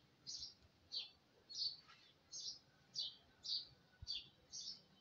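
A small bird chirping over and over, short high chirps that each fall slightly, about two a second.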